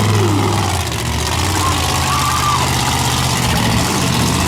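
Monster truck engine idling steadily, its pitch dropping slightly about a second in.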